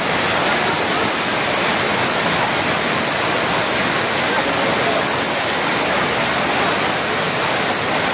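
Heavy rain pouring down in a steady, dense rush that does not let up.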